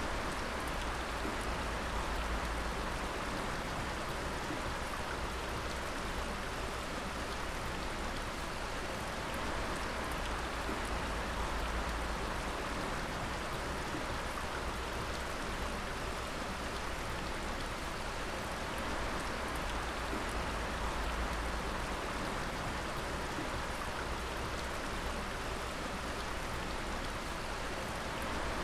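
Water dripping continuously: many drops falling at once over a steady hiss of running water, with a low rumble underneath.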